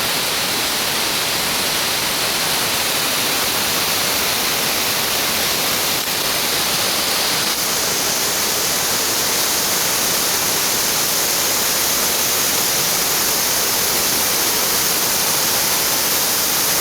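A 20 m waterfall: steady, loud noise of falling water.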